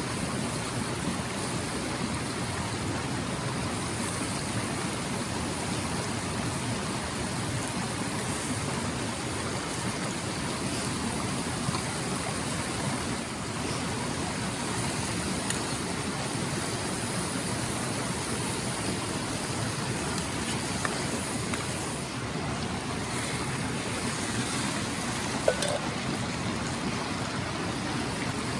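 Clear mountain stream rushing steadily over rocks. A single brief click sounds near the end.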